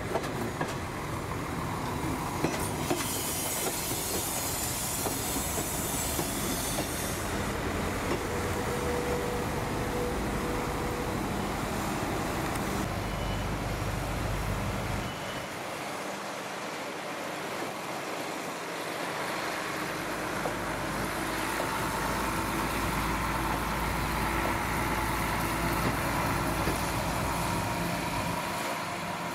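Red-and-white multiple-unit passenger train running along the tracks: a steady rumble of wheels on rail with clickety-clack over the rail joints and brief high-pitched wheel squeals.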